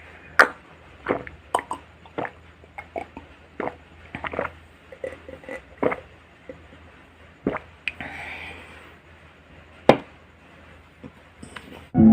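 Close-miked chewing of crunchy raw salad vegetables: irregular crisp crunches and wet mouth clicks, a couple of them sharper and louder.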